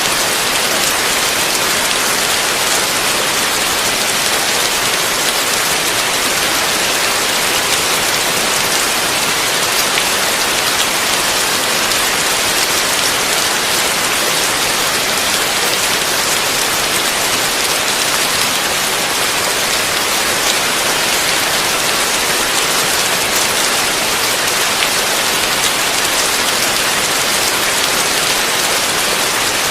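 Heavy rain falling steadily: a dense, even hiss with no thunder or other events.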